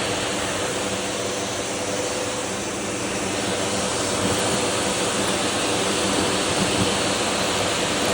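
Vacuum cleaner running steadily with an open hose: a constant rush of air over a steady motor hum.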